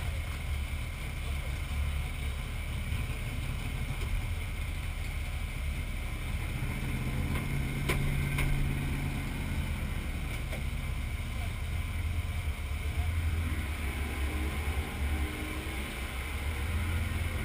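A 455 Pontiac V8 idling in a Buick wagon: a steady low rumble heard from inside the cabin, swelling slightly about eight seconds in.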